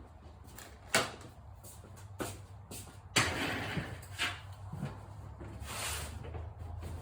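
Sharp knocks and clanks of metal tools being handled on a lawn mower engine, with a burst of noise starting suddenly just after three seconds in and lasting about a second.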